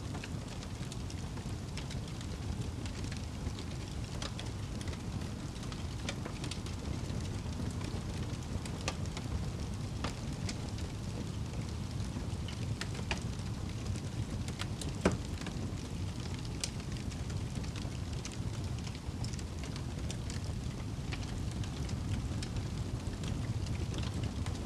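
Campfire crackling with scattered small pops, and one sharper pop about fifteen seconds in, over a steady low rumble.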